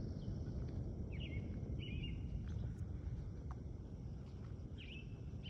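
Birds chirping outdoors: a few short calls that dip and then level off, over a steady low rumble.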